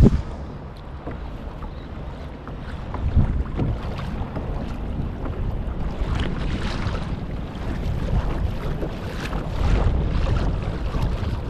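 Wind buffeting the microphone over water sloshing against a kayak hull at sea, with a short thump right at the start and a couple of louder swells of splashing later on.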